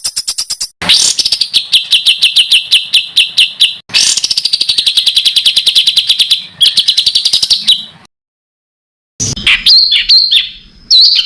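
Songbird song made of rapid-fire runs of evenly repeated notes, about seven a second, in three bursts. It breaks off for about a second, then goes on in quick sharp down-slurred chirps. These are 'tembakan' (rapid-fire) phrases of the kind played as tutor song to train contest songbirds.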